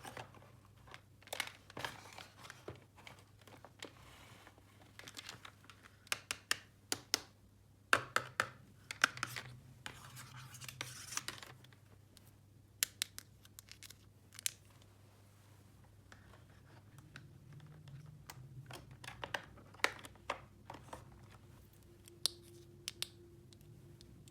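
Small plastic toy pieces being handled, with irregular clicks, taps and scratching and some crinkling, loudest in a cluster about eight to eleven seconds in.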